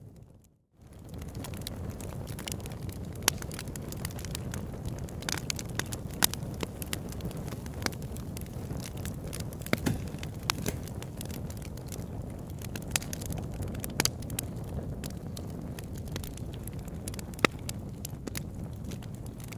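A large log burning in a converted oil-drum fire pit, crackling with frequent sharp pops over a steady low rushing noise. The sound drops out briefly just after the start.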